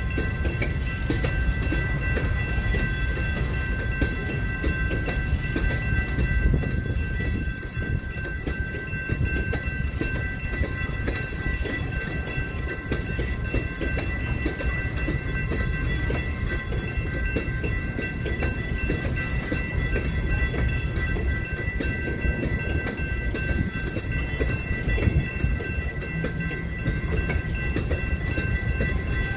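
Train cars rolling past at track side, a continuous low rumble with the rapid clicking of wheels over the rails, and a steady high whine held throughout.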